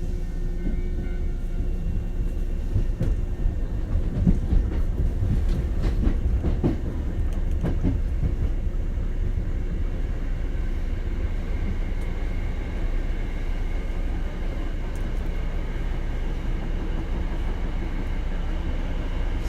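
Hankyu 7000 series electric train running at speed, heard from inside a passenger car: a steady rumble of wheels on rail, with a run of rail-joint clicks between about three and eight seconds in.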